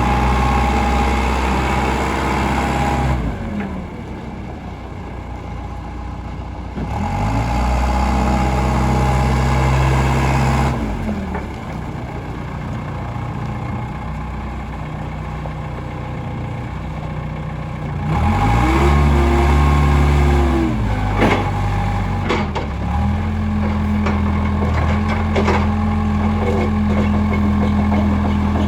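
1985 Case 580G backhoe loader's diesel engine running, revved up and let back down three times, then held at a steady fast idle. A few sharp knocks come about three-quarters of the way through.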